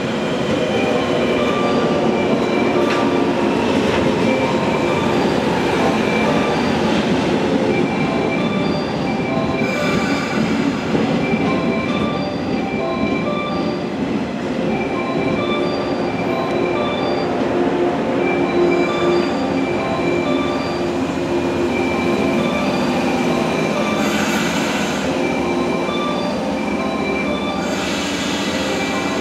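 Electric commuter train running along the platform and drawing to a stop, with rail and brake noise, hissy surges about 10 s, 24 s and 28 s in, and a pulsed tone repeating on and off throughout.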